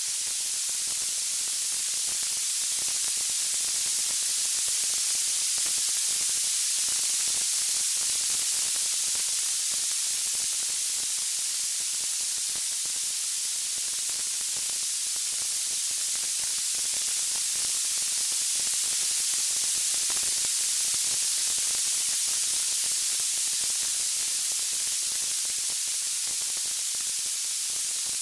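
Steady, high hiss of white noise, swelling slowly louder and softer twice, with no distinct crackles or pops.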